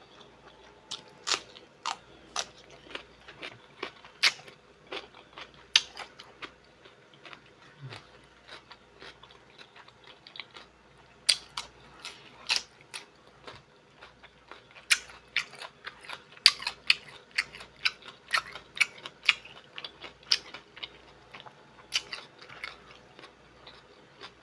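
Close-miked mouth sounds of eating: chewing and wet lip smacks with many sharp, irregular clicks, coming in clusters.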